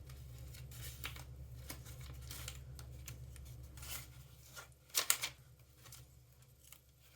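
Palette knife scraping embossing paste across a decorative mask on cardstock: soft, irregular scraping strokes, with a sharper pair of scrapes about five seconds in.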